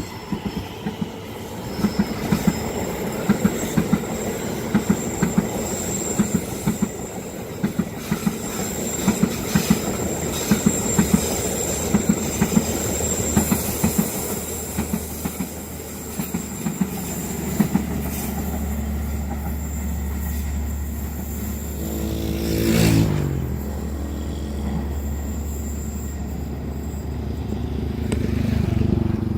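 A train running past, its wheels clicking rhythmically over the rail joints with a thin high wheel squeal. Later the clicking fades into a steady low hum, with a brief falling tone about two-thirds of the way through.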